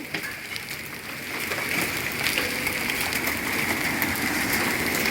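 Rain and pea-sized hail falling, a steady hiss of rain with scattered sharp ticks of hailstones striking.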